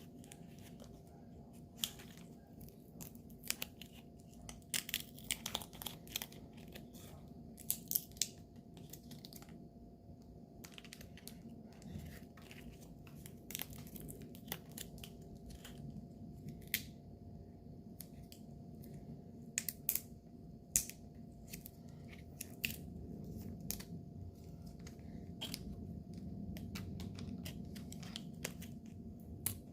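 Irregular small clicks, ticks and crinkles of hands handling nail-art tools and materials, some in quick clusters, over a steady faint hum.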